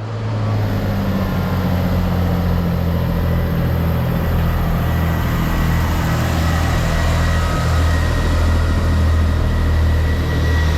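Diesel train's engine running steadily at idle: a loud, even low hum with a thin high whine over it.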